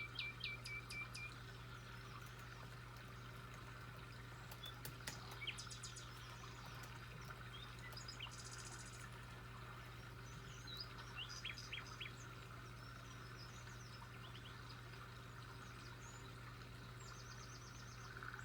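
Small birds chirping and calling in short scattered bursts over a steady low background hum.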